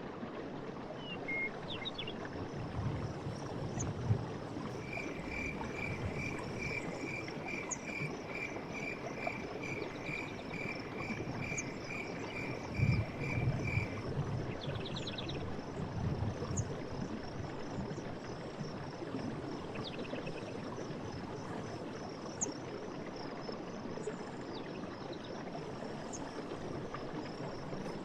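Night forest ambience: insects trilling steadily over an even hiss, with scattered short chirps. From about five seconds in until halfway, a clear call is repeated about twice a second.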